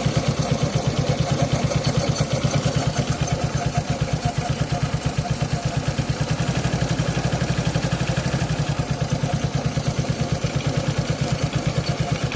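Suzuki Access 125 scooter's single-cylinder four-stroke engine idling steadily with an even, rapid pulsing clatter at first start of the day. The owner takes the noise for the CVT, while a mechanic blamed the timing chain.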